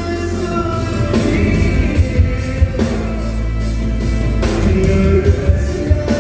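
Live band music from a rock song: steady drum and cymbal hits under long held melody notes, with no clear sung words.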